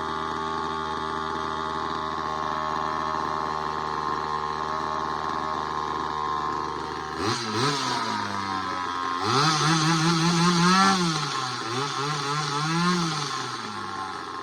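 Craftsman 2.3 two-stroke chainsaw engine idling steadily, then revved: a couple of quick blips about halfway through, a longer rev, and one more before it settles back toward idle near the end.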